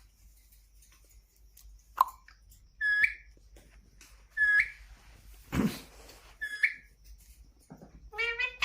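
Indian ringneck parakeet giving short whistled calls that hook upward, four of them spaced a second or two apart. A brief noisy burst comes about halfway through.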